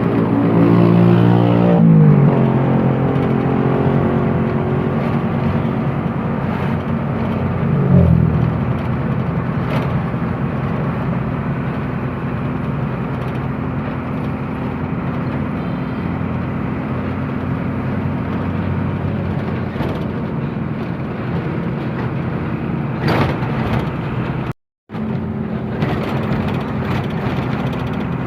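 Truck engine running under way, a steady engine note with road noise; the revs drop twice, at about two seconds and again around eight seconds. The sound cuts out for a moment near the end.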